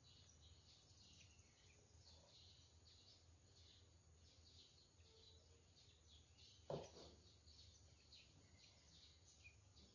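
Near silence with faint bird chirping in the background and one soft knock about seven seconds in.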